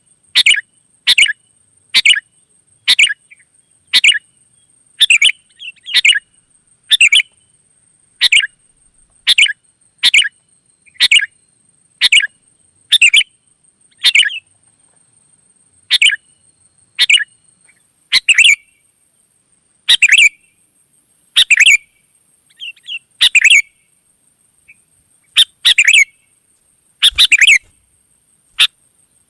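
Sooty-headed bulbul (kutilang) calling loudly: short bubbly phrases repeated about once a second, spacing out with a few longer gaps in the second half.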